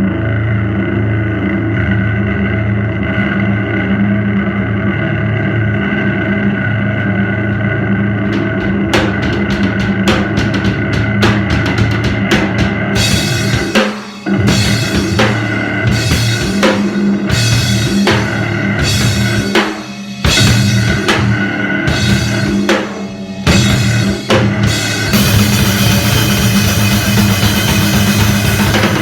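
Live powerviolence/grindnoise band playing loud: a steady droning guitar hum, then drum hits come in about nine seconds in, the band strikes together in stop-start hits with brief cut-offs, and near the end it breaks into a continuous wall of noise.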